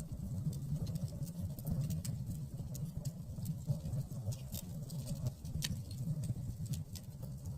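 Campfire crackling: irregular sharp pops and snaps, many a second, over a steady low rumble.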